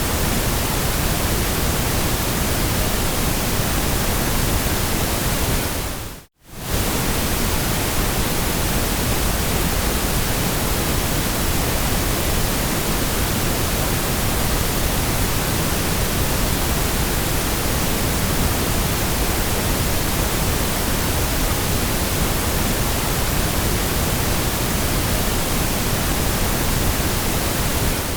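Steady generated noise, an even hiss spread across all pitches. It fades out briefly and comes straight back about six seconds in.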